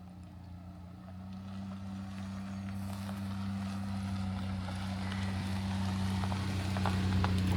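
A motor or engine running with a steady low hum that grows gradually louder, with a few faint clicks in the second half.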